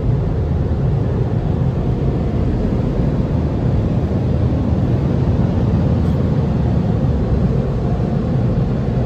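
Steady low rumble heard from inside a car.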